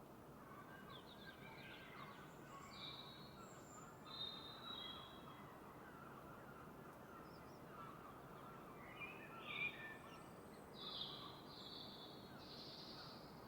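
Dawn birdsong: several birds calling in short, separate phrases over a steady background hiss, with the loudest calls in the second half.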